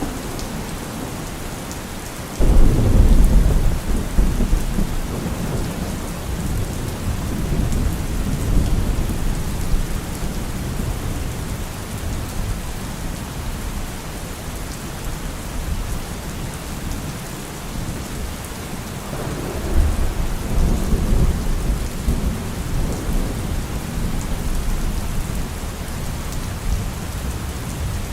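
Steady rain with thunder: a sudden loud clap of thunder about two and a half seconds in that rolls off into a low rumble, and a second rumble of thunder swelling about two-thirds of the way through.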